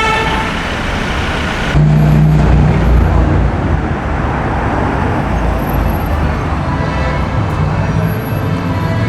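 City street traffic with running engines and tyre noise. About two seconds in, a vehicle's engine comes in suddenly louder and low-pitched for about a second before blending back into the traffic.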